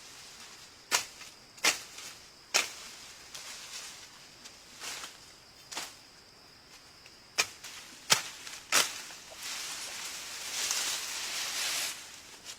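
Irregular sharp knocks or cracks, about eight over nine seconds, from hand work on storm debris, then a stretch of rustling near the end.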